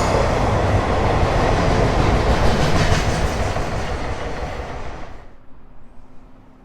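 Freight train wagons rolling past with wheel clatter on the rails. The sound fades and then drops away abruptly about five seconds in.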